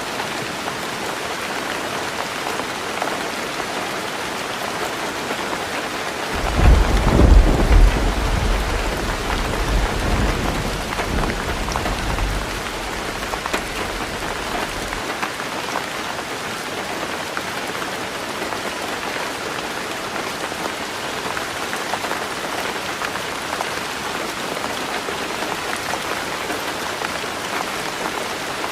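Heavy rain drumming steadily on a tin roof, with a roll of thunder that breaks in about six seconds in, rumbles deep for several seconds and fades out by about halfway.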